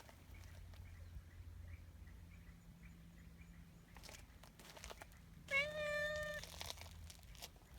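Calico cat giving one short meow about five and a half seconds in, rising at the start and then held on one pitch.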